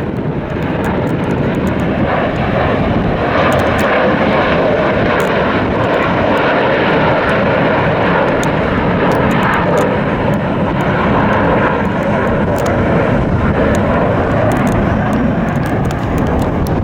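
Airliner's engines running, a loud, steady rush of noise that swells slightly and holds.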